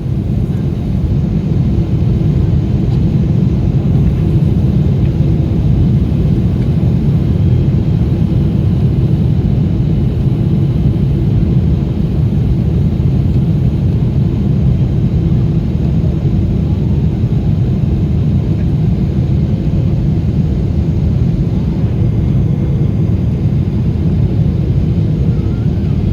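Steady low rumble of engine and airflow noise inside the cabin of an Emirates Boeing 777-300ER, with its GE90 turbofans, during the landing approach, unchanging throughout with faint steady hums over it.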